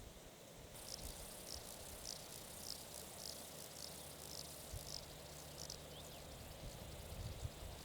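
An insect, cricket-like, chirping in a steady series of short high chirps, about two to three a second, over a faint steady hiss of outdoor noise; the chirps start under a second in and fade out near the end.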